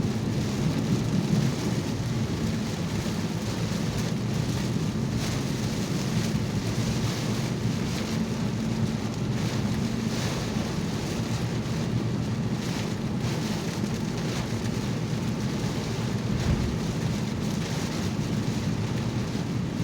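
Rain falling on a moving car, heard from inside the cabin over a steady low road and engine rumble during a thunderstorm.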